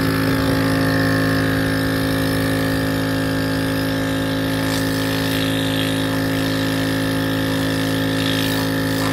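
Pari Trek portable compressor nebulizer running with a steady, even hum, its compressor pumping air out of the unit.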